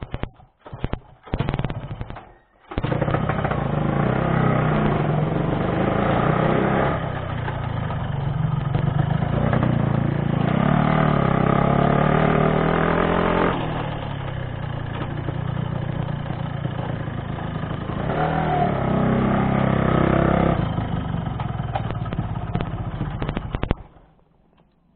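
Yamaha RX-King two-stroke motorcycle engine: a few short blips, then running continuously for about twenty seconds with its pitch rising and falling as the throttle opens and closes, stopping about a second before the end.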